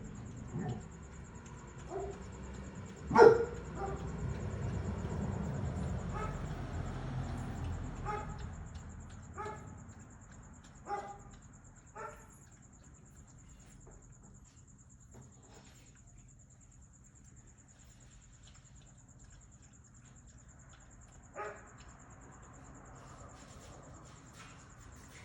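A dog barking: one loud bark about three seconds in, then softer short barks and yips scattered through the first half, and one more near the end.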